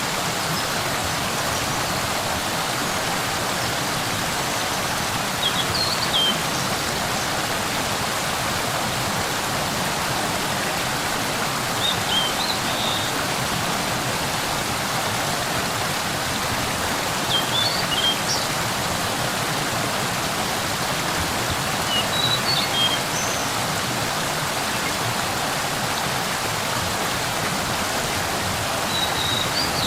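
Waterfall rushing steadily. Short high chirps come through about every five to six seconds.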